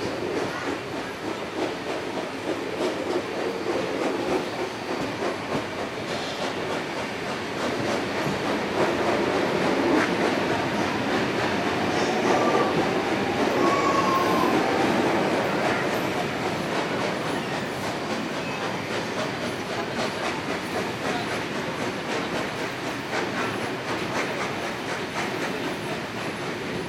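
Steam train's passenger carriages rolling over the track, heard from on board: wheels clattering over the rail joints and points as the train moves off. It grows louder through the middle and then settles.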